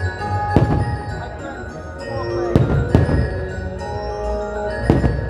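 Fireworks display: aerial shells bursting with sharp bangs four times, about half a second in, twice in quick succession near the middle, and once near the end, over Christmas show music led by chiming bell-like mallet percussion.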